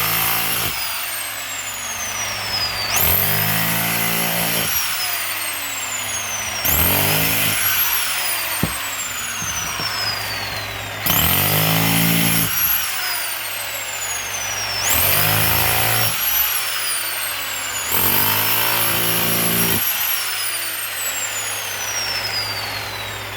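Bauer SDS rotary hammer chipping bricks loose, run in six short bursts of a second or two. Each burst spins up to a rapid hammering, and its motor whine falls away after each release.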